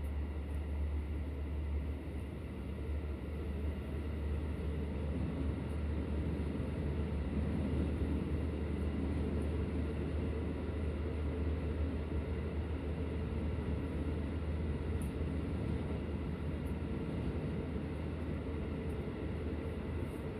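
Interior noise of a train carriage: a steady low rumble and hum with no marked change.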